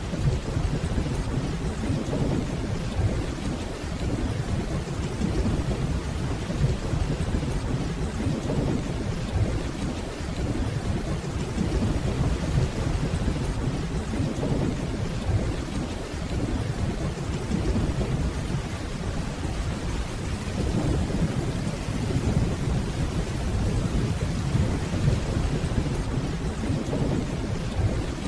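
Steady rainfall with a continuous low rumble of distant thunder that swells and eases slightly.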